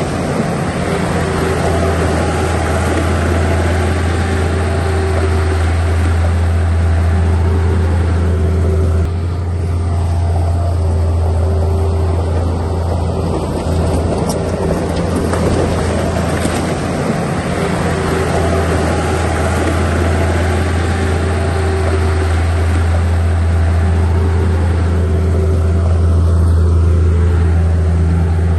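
Diesel engine of heavy earthmoving machinery running steadily with a deep drone, shifting slightly about nine seconds in.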